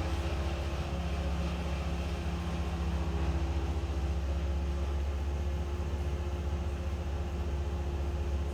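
An engine running steadily at an even, low speed, a constant mechanical hum.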